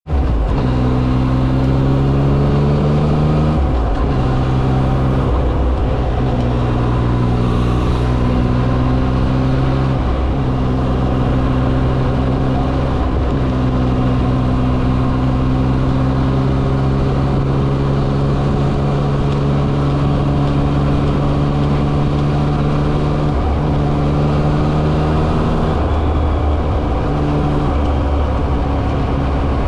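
Yamaha XSR900 inline-three engine under way: its pitch climbs for the first few seconds, drops at a gear change, then holds steady at cruising speed with a few further shifts, over road and wind noise.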